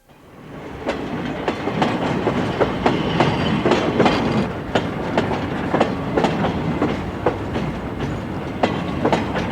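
Train running over jointed track: a steady rumble with the wheels clacking over the rail joints at an uneven beat. It fades in over the first second.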